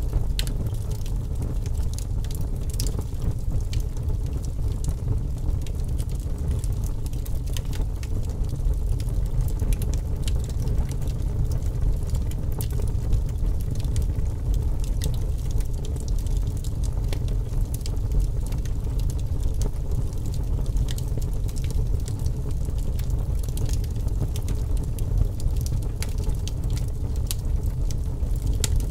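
Wood fire burning in a fireplace: scattered crackles and pops over a steady low rumble of the flames.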